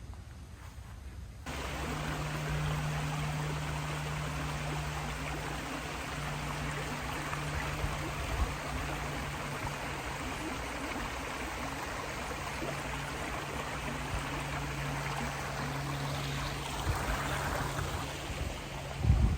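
Stream running, an even rushing of water that sets in suddenly about a second and a half in, with a low steady hum underneath and a brief thump near the end.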